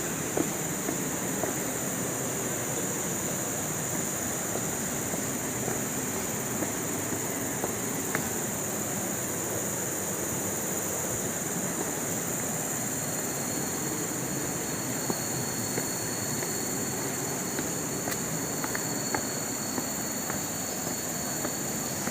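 Steady outdoor ambience: a continuous high-pitched insect drone over an even rushing noise, with a second thin high tone joining about halfway through and a few faint clicks.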